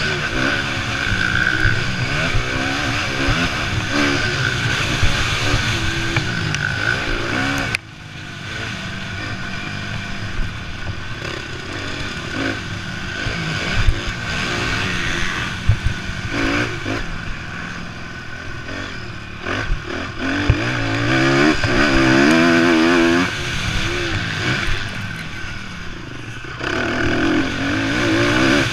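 Several motocross bikes racing, their engines revving up and down as they pass and overlap, with clattering from the bikes. The sound changes abruptly about a third of the way in, and again twice near the end.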